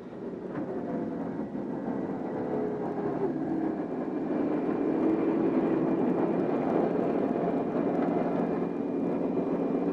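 Large helicopter's turbine engines and rotors running: a steady mechanical whine and rush that swells over the first few seconds and then holds steady.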